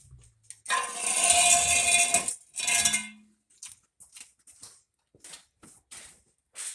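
Metal scraping and clanking as a car's exhaust muffler is handled: a long grating scrape with a ringing tone lasting about a second and a half, a shorter scrape just after, then scattered light clicks and taps.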